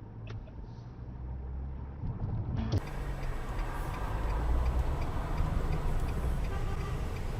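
Car driving noise, a steady low engine and road rumble picked up by a dash cam inside the car. A few faint clicks come early, and about two and a half seconds in the sound changes abruptly to a louder, hissier road noise.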